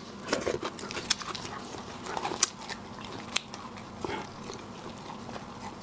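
Close-miked eating of seafood: irregular small clicks, crackles and wet chewing noises.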